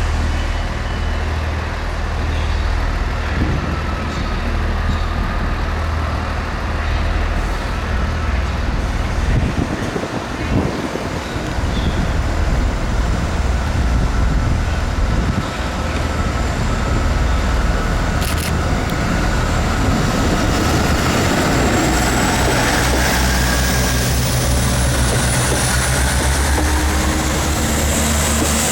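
Class 159 diesel multiple unit's Cummins diesel engines running steadily, then opening up about ten seconds in as the train pulls away. The engine note rises toward the end as wheel and rail noise builds.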